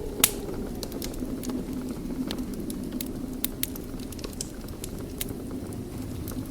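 Wood fire burning in a fireplace: irregular sharp crackles and pops, one louder pop about a quarter second in, over a steady low rumble.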